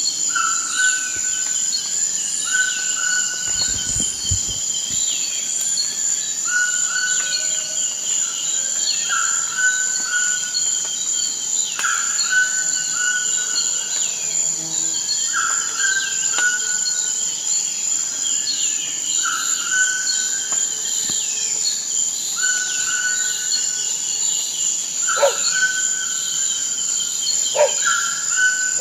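Rainforest ambience: a steady, high-pitched insect drone, with a short animal call repeated every couple of seconds over scattered higher chirps. Two sharper calls stand out near the end.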